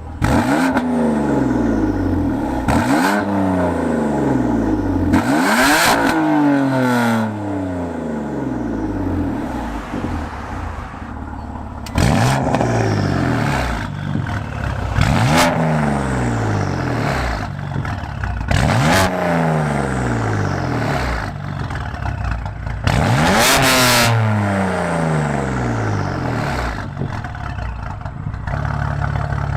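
BMW M4's twin-turbo inline-six (S55), breathing through an FI exhaust and catless downpipes, being free-revved about eight or nine times: each blip climbs steeply and falls back to idle. Sharp cracks ring out among several of the revs.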